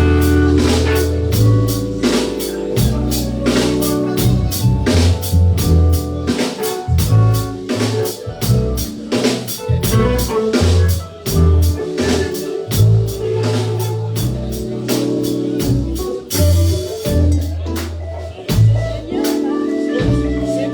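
Band playing an instrumental passage: a drum kit keeps a steady beat over bass and guitar, with a cymbal crash about sixteen seconds in.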